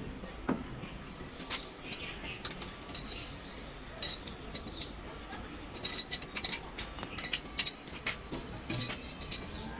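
Metal tools and small engine parts clinking and tapping against each other during engine disassembly, in a scatter of short sharp clicks, busiest about six to eight seconds in.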